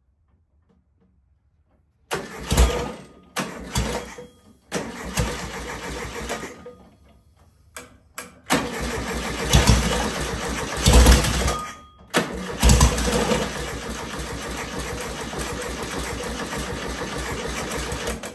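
A 1970 VW Beetle's air-cooled flat-four engine starting and running in short stretches broken by abrupt stops, with loud bursts of revving around the middle, then running steadily until it cuts off at the end.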